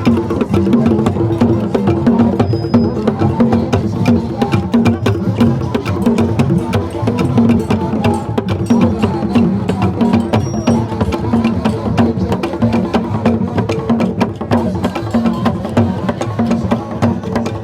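Percussion music in a steady repeating rhythm: sharp wood-block-like clicks over drums.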